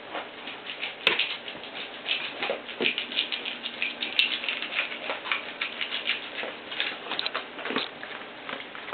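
Puppies about three weeks old squeaking and scrabbling, a rapid patter of small high squeaks and scratches, with two sharp clicks about a second and about four seconds in.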